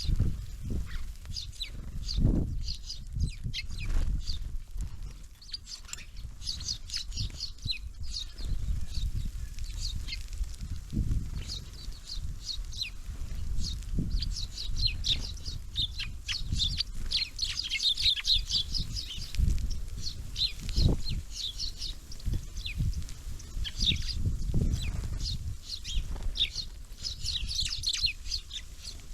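Small birds at a winter feeder chirping and twittering in many short high calls, busiest in the middle and near the end, over frequent low thumps and knocks.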